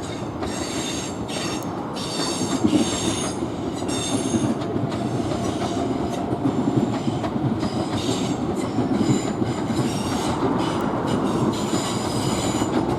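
Southeastern Class 465 electric multiple unit running past with a steady rumble of wheels on rail, broken by repeated high-pitched wheel squeal that comes and goes through the pass.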